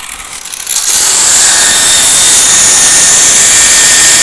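Power grinder grinding the edge of a white marble slab, a loud steady hissing grind that starts about a second in.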